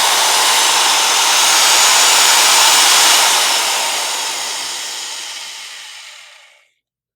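Power drill running with a loud, even, hiss-like noise and no clear pitch. It gradually fades over its last few seconds and stops near the end.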